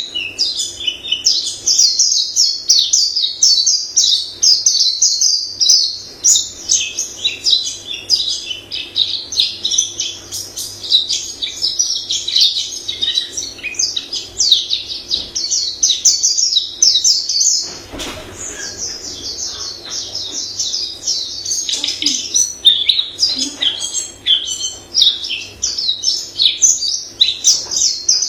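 A white-eye sings a long, rapid, varied warbling song of high notes with hardly a break. There is a single knock about eighteen seconds in.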